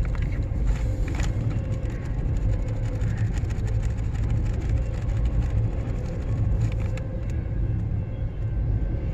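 Steady low rumble of a long CN freight train rolling past, with a faint steady tone above it and a few faint clicks.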